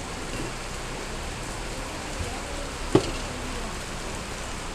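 Steady hiss of rain, with a single sharp knock about three seconds in.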